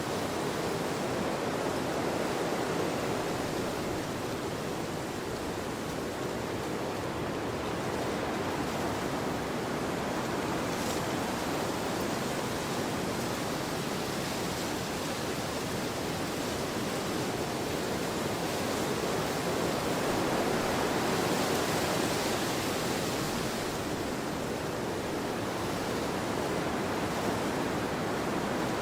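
Wind blowing across an open field: a steady rushing noise that swells slightly and eases again.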